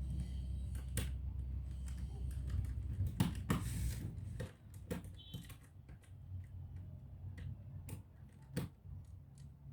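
Scattered light clicks and taps of hands handling laptop parts and tools during disassembly, with a short scrape a little after three seconds in. A low steady hum stops about four and a half seconds in.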